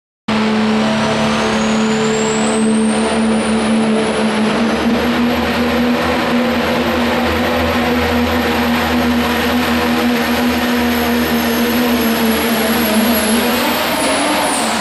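Pro stock diesel pickup truck at full throttle under load during a truck pull. A high turbo whine climbs over the first few seconds and then holds over a steady engine note. It starts abruptly, and the whine dips near the end.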